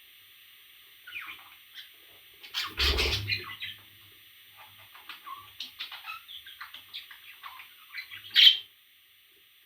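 Parrot making short chirps and calls in quick strings, with a loud bump-like burst about three seconds in and a sharp, loud squawk near the end, over a steady hiss.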